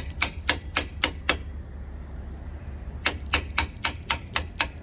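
Hammer striking steel in two quick runs of blows, about four a second, each strike sharp and ringing, with a pause between the runs. The blows are driving a seized fifth-wheel mounting pin loose. A steady low hum runs underneath.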